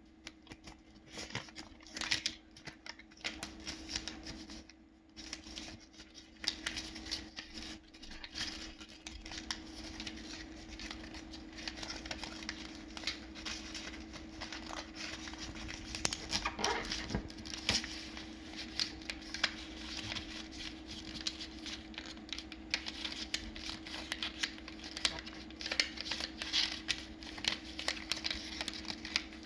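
A sheet of origami paper being folded and creased by hand: continuous rustling and crinkling with many short sharp crackles.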